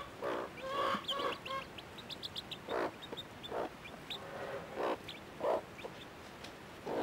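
Hen clucking in short irregular calls, with brief high-pitched peeps from chicks among them.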